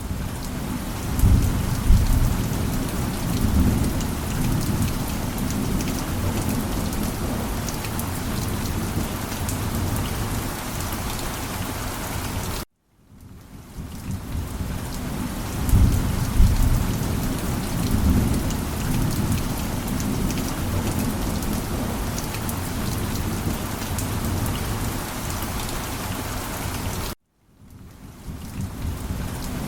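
Steady heavy rain with low rolling thunder rumbles. The track cuts out abruptly twice, about 13 and 27 seconds in, and fades back in, with a thunder rumble a couple of seconds after each return.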